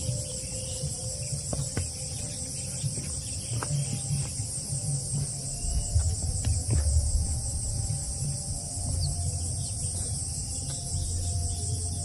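Steady chorus of crickets or similar insects chirring in a fast, even pulse, with a low rumble and a few light clicks underneath.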